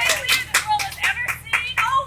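Rapid, irregular sharp claps or clicks with brief snatches of a voice.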